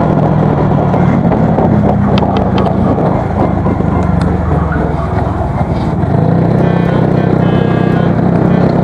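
Honda Super Cub's single-cylinder engine running through an aftermarket BEAMS muffler while riding, a steady exhaust note that eases off about five seconds in and pulls steadily again a second later.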